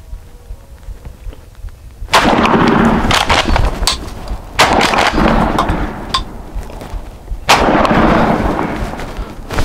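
Three shotgun shots, about two and a half to three seconds apart, each followed by a long loud noisy rush. The hunter fires again at a hit turkey as it runs.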